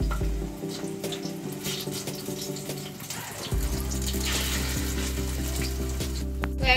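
Chicken kebab patties sizzling in shallow hot oil in a frying pan as more are laid in by hand, with background music underneath.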